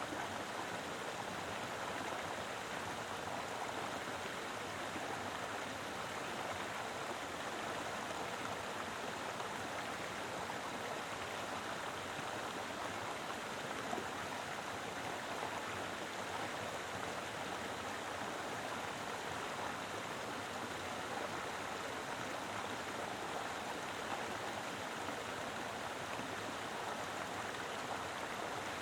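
Mountain river flowing with plenty of water: a steady, even rush without breaks.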